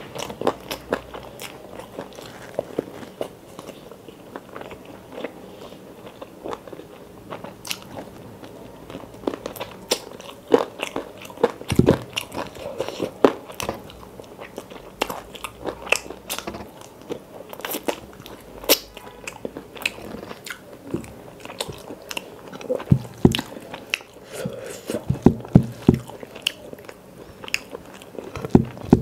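Close-miked eating by hand: biting and chewing a curried chicken leg piece and rice, with wet mouth clicks and crunches coming irregularly, louder in clusters now and then.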